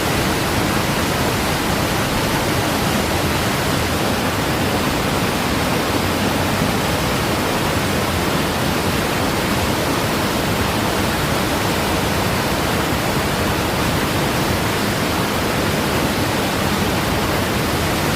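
Waterfall: water falling and crashing in a steady, loud rush.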